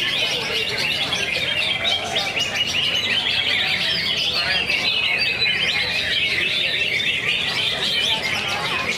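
Many greater green leafbirds (cucak hijau) singing at once: a dense, unbroken chatter of overlapping chirps and trills.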